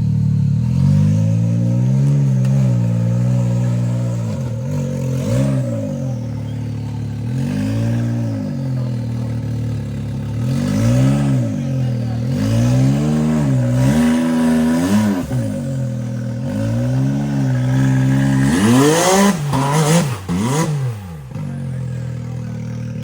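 Side-by-side UTV engine revving in repeated throttle bursts while rock crawling, its pitch rising and falling every second or two. Near the end it revs much higher several times in quick succession.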